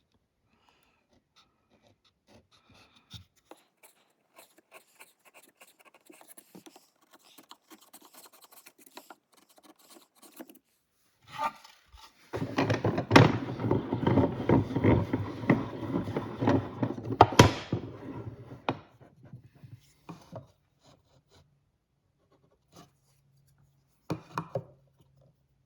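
Hand tool working wood: light scratching at first, then about six seconds of loud, rough rubbing and scraping strokes on the wood with a few sharp knocks. A faint low hum is left near the end.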